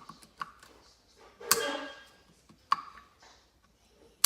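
A few sharp metallic clicks and clinks of snap-ring pliers working a snap ring off the clutch hub of a 1975 Kawasaki KZ400. The loudest clink, about a second and a half in, rings briefly.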